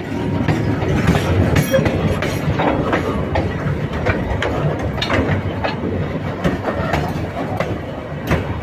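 Running train: a steady heavy rumble with irregular clicks and clanks of the wheels and carriages on the track.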